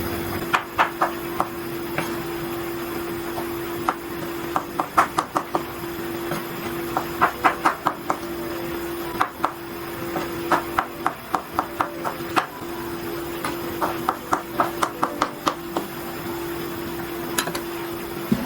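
Knife chopping food on a cutting board in quick runs of several strokes, with short pauses between runs, over a steady low hum.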